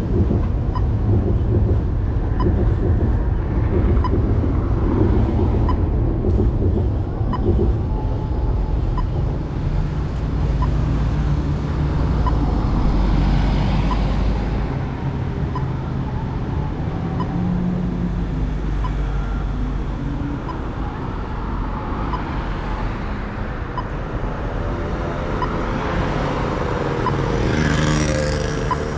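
Wind rumbling on the microphone and road traffic during a bicycle ride. A motor vehicle passes close near the end.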